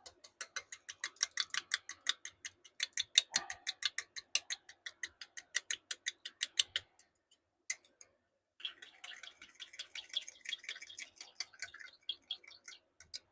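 A utensil stirring a cup of bait mix, clicking against the cup's sides about five times a second. The clicking stops about seven seconds in and picks up again a second or so later, with a softer scraping under it.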